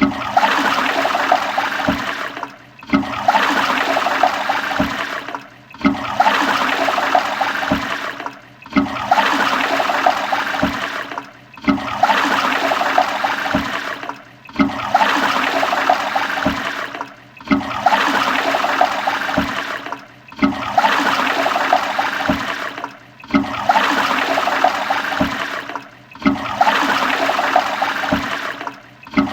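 A toilet flushing, the same short rush of water repeated over and over, each lasting just under three seconds with a brief dip between, about ten times in a row.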